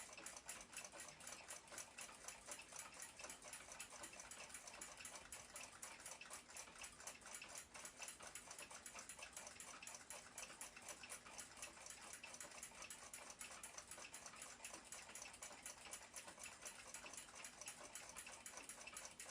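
Junghans W146 ship's clock movement running, its balance-wheel platform escapement ticking faintly, fast and evenly at about five ticks a second.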